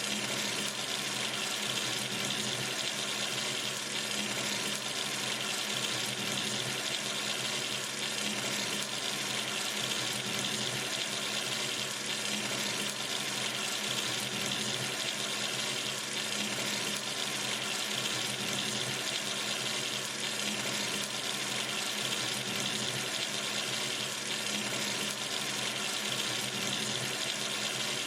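Water running steadily from a sink tap into the basin, an even hiss of splashing water.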